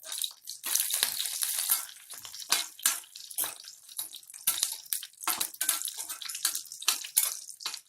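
Whole dried red chillies and fennel seeds frying in hot oil in a kadai, a steady sizzle broken by many irregular crackles and pops as the spices turn red.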